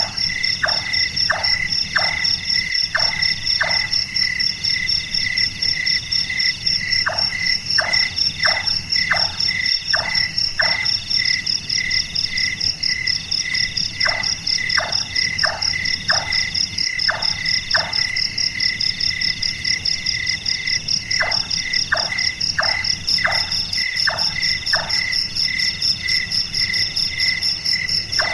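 Large-tailed nightjar calling: series of five or six short knocking notes, each falling quickly in pitch, about one and a half a second, with a pause of a few seconds between series. Behind it is a steady chorus of crickets with a fast-pulsing high trill.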